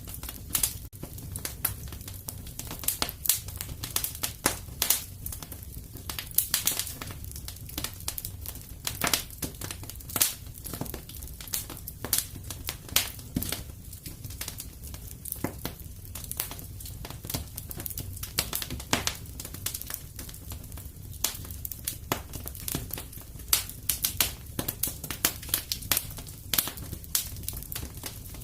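Wood fire burning in a fireplace: irregular crackles and sharp pops, several a second, over a low steady rumble.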